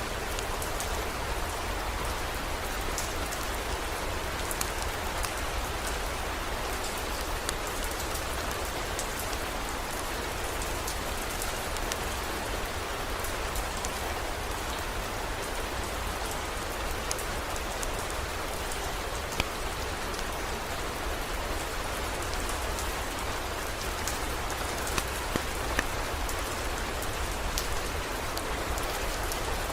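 Heavy rain falling steadily, with scattered sharp drop ticks and a constant low rumble underneath.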